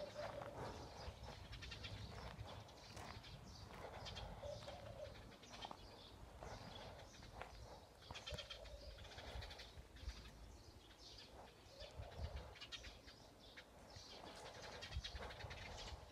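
Small birds chirping faintly in a tree, many short high chirps, with a short lower call every few seconds.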